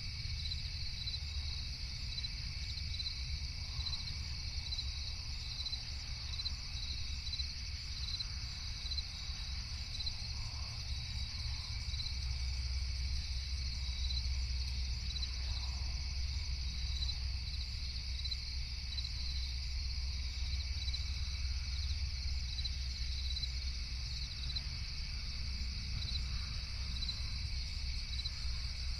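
Night-time chorus of crickets chirping steadily, with evenly repeated chirps, over a steady low rumble.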